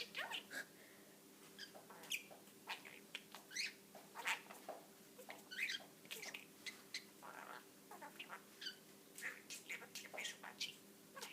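Pet budgerigar chattering and warbling: a continuous string of short, scratchy chirps, clicks and quick pitch sweeps at irregular intervals.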